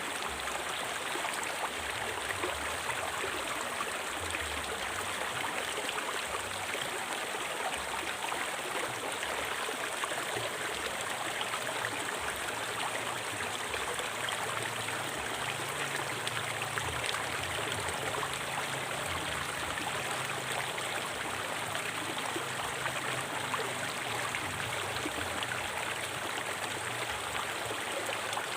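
River water flowing over rocks, a steady rushing and burbling.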